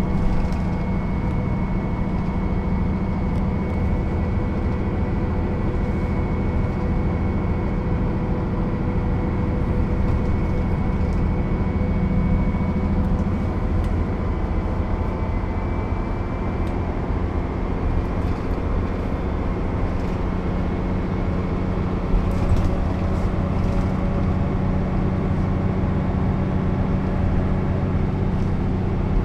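Mercedes-Benz O 407 bus under way, its diesel engine running steadily, the engine note shifting a little around the middle, with a brief rattle about three quarters of the way through.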